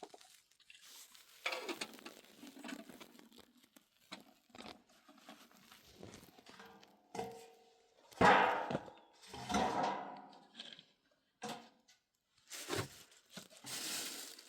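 Irregular rustling and crinkling with short knocks, as of things being handled; the loudest bursts come about eight to ten seconds in.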